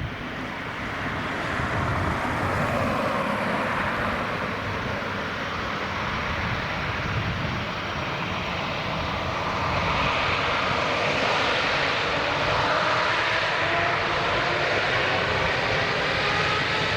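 Airbus A350's Rolls-Royce Trent XWB turbofans at takeoff power: a steady loud jet rush, with whining tones slowly rising in pitch near the end.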